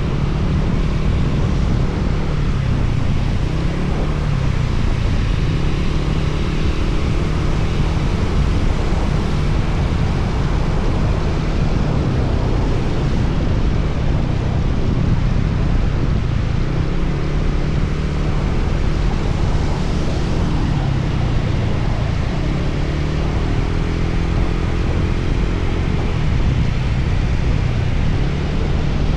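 Motorcycle running at road speed, a low engine drone under a thick hiss of wind and wet-road noise. A pitched engine note comes through above the drone a few times.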